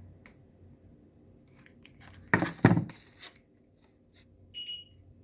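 Craft pieces and a hot glue gun being handled on a table: two sharp knocks close together about two and a half seconds in, a few light clicks, and a short squeak near the end.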